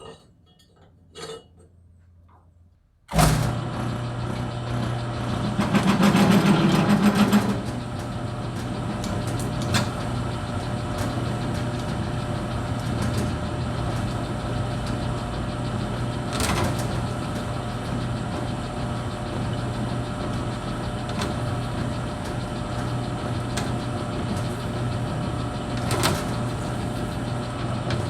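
A few light metal clinks, then about three seconds in a shop machine's motor switches on abruptly and runs steadily with a low hum. It swells louder for a couple of seconds soon after starting, and a few sharp clicks sound over it.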